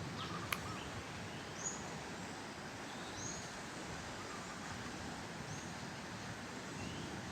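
Steady outdoor ambience with a bird calling: three short, high notes that rise and fall, a second or two apart, with fainter lower chirps in between. A single click sounds about half a second in.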